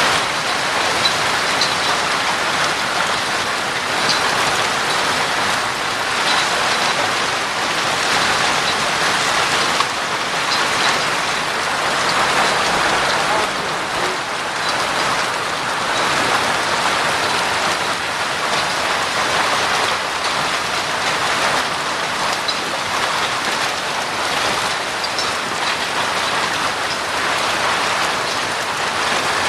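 Heavy hailstorm: golf-ball-sized hailstones and rain pelting down on hard surfaces in a steady, dense patter, with scattered sharper clicks of individual stones striking.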